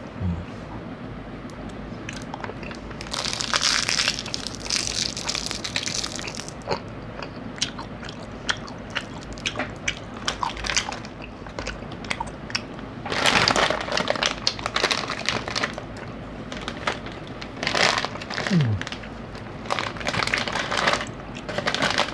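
A person chewing a crunchy peanut snack close to the microphone, the crunches coming in irregular bursts, with plastic snack packets crinkling near the end.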